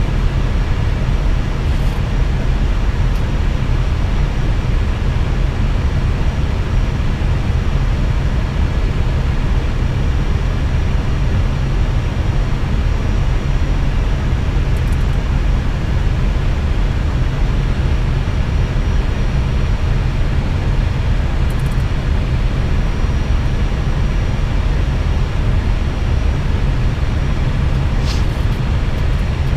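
Airbus A320 cockpit noise on final approach to landing: a steady rumble of airflow and engines, strongest in the low end, with a faint steady high whine over it.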